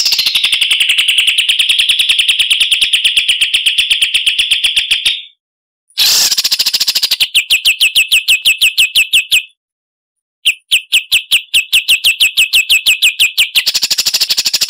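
Songbird song on a bird-training recording: bursts of rapid, evenly repeated sharp high notes, about ten a second. The first trill lasts about five seconds, the second about three and a half, and a third begins after a second's pause.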